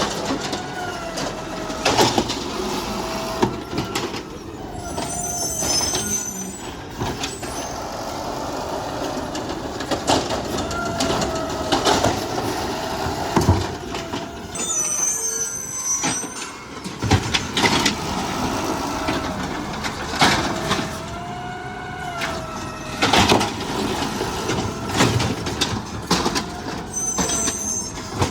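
Garbage truck working its way along a street: engine and hydraulic whine rising and falling, with sharp clanks and knocks in a cycle that repeats about every nine to ten seconds. A brief high squeal comes between cycles, three times.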